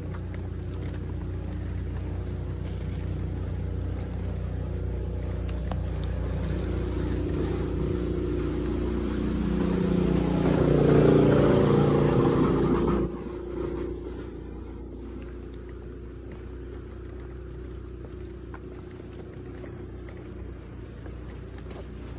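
A motor vehicle running, growing louder to a peak about eleven seconds in, then dropping off sharply to a steady lower hum.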